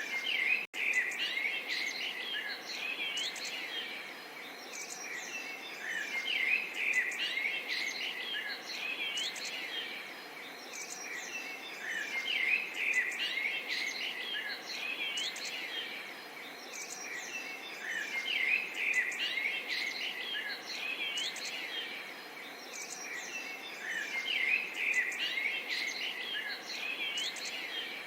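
Many small songbirds chirping and trilling over a soft, steady babble of running water. The birdsong swells and fades about every six seconds, and the sound cuts out for a split second about a second in.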